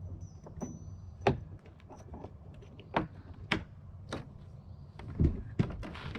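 A series of irregular sharp knocks and clunks, about eight in all, the loudest near the end, over a low steady hum that fades within the first second or two.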